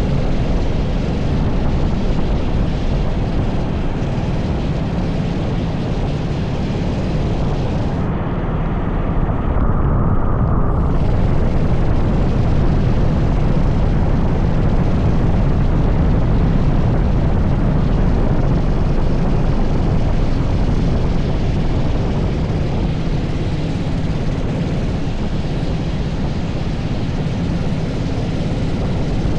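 An 80cc racing kart's engine running steadily, under a loud rush of wind on the microphone. About eight seconds in, the hiss dulls for roughly three seconds before returning.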